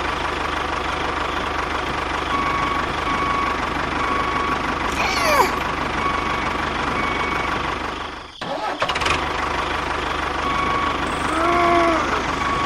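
A small motor running steadily with a low pulsing drone. It breaks off for a moment about eight seconds in, then carries on, with faint evenly spaced beeps over it in the middle.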